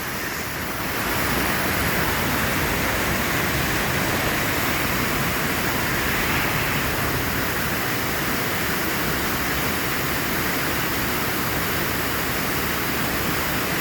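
The Santa Ana River in flood after days of heavy rain, its fast-moving water roaring in a steady rush.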